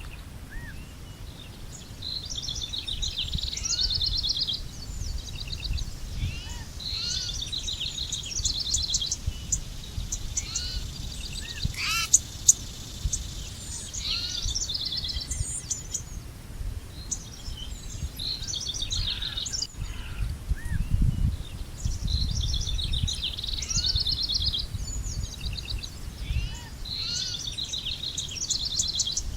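Songbirds singing: short phrases of quick trills and chirps repeating every few seconds, over a steady low rumble.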